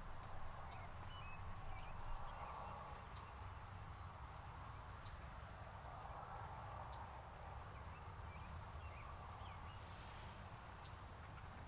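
Distant wild turkey gobbling, faint, among other birds. A short, high, sharp note repeats about every two seconds.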